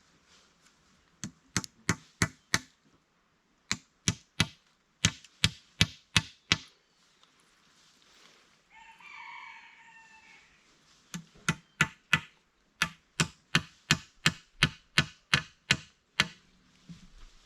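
Runs of sharp chopping blows, about three a second, with a tool blade striking wood: a few short bursts, a pause, then a longer run of about fifteen strokes. In the pause a bird gives a single short call.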